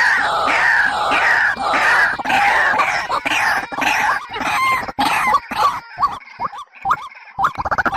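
Bird calls: a rapid series of short downward-sliding calls, about three a second, that thin out about halfway through into scattered short chirps and clicks.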